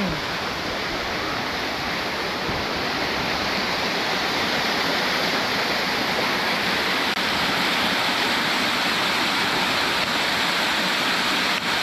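Waterfall: a steady rush of falling water, getting a little louder over the first few seconds.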